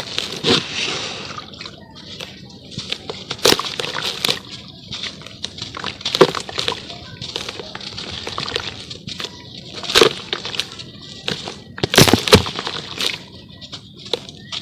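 Lumps of charcoal crumbling in water: irregular wet crunching and sloshing, broken by sharp cracks as pieces snap, the loudest about ten and twelve seconds in.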